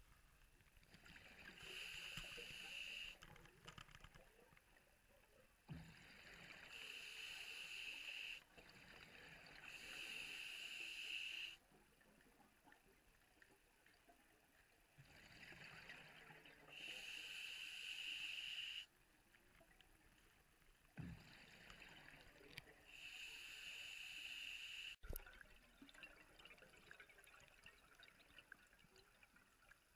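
A scuba diver's breathing through a regulator underwater: each breath is a rushing hiss of about two seconds, repeating every few seconds, with one sharp click near the end.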